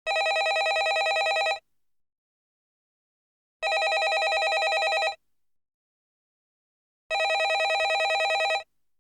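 Landline telephone ringing: three rings of about a second and a half each, about three and a half seconds apart, each a rapid trilling ring.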